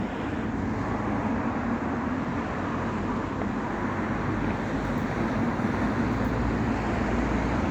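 Steady traffic rumble from road vehicles, an even wash of noise with no sharp bangs.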